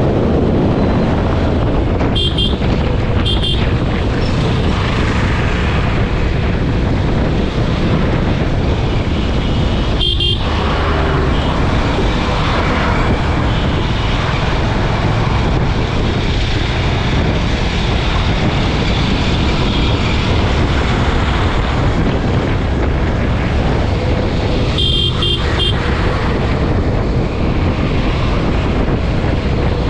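Steady wind and road noise from a motorcycle riding at speed on a highway, with a vehicle horn honking briefly a few times, twice in short taps about two and three seconds in and again near the end.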